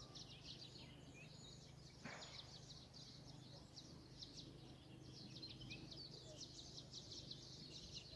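Faint, rapid high-pitched chirping of birds in quick irregular clusters, over a low steady hum.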